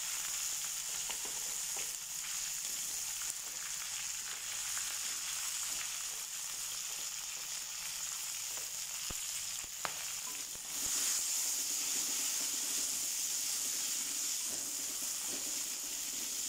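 Bitter melon, shallots and chilies sizzling in hot oil in a wok, a steady frying hiss, with a metal spatula clicking against the wok a couple of times near the middle. The sizzle gets louder about eleven seconds in.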